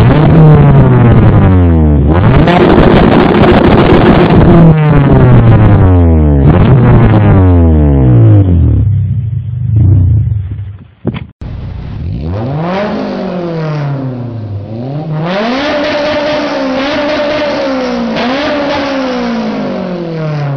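Honda S2000's four-cylinder engine through an Invidia aftermarket exhaust, revved repeatedly, its pitch climbing and falling again several times. After a short break about halfway through, a second run of revs rises, holds high for a few seconds and drops near the end.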